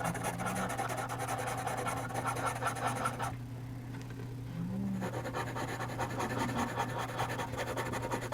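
Soft 6B charcoal pencil scratching on charcoal paper in small circular shading strokes, stopping for a moment near the middle. A few faint snores come from a sleeping pet.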